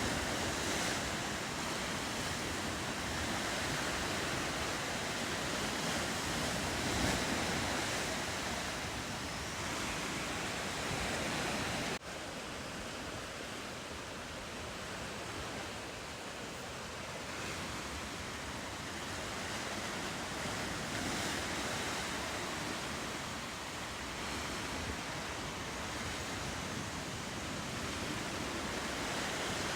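Steady ocean surf with wind, an even wash of noise; about twelve seconds in the sound cuts abruptly to a slightly quieter wash.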